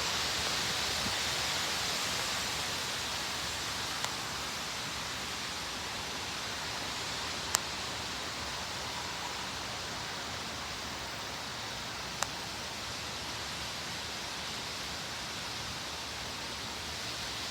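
Thunderstorm rain and wind making a steady hiss, with three short sharp ticks about 4, 7 and 12 seconds in.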